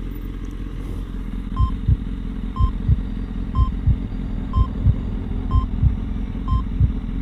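Heartbeat and heart-monitor sound effect: a double thump about once a second, with a short high beep on each beat, starting about a second and a half in over a steady low rumble.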